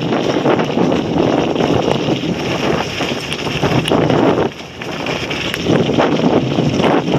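Wind buffeting the microphone in gusts, loud and uneven, easing briefly about halfway through.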